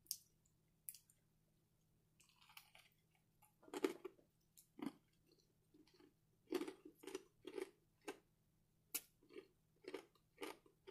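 Close-up chewing of a crispy fried chicken sandwich, with crunches that are scattered at first and then come in a steady rhythm of about two chews a second.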